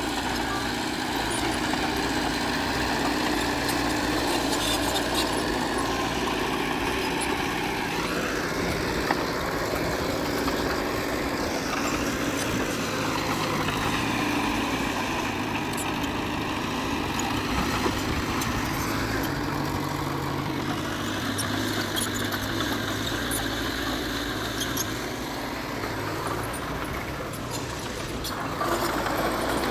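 Heavy diesel engine of earthmoving machinery running steadily, revving up and down several times as it works under load.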